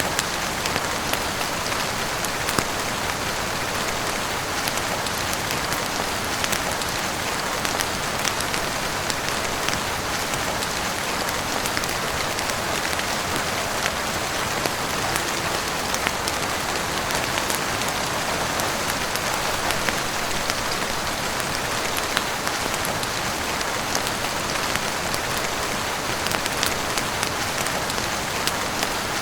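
Steady heavy rain falling on a roof, with scattered sharp crackles and pops from a wood fire at irregular moments throughout.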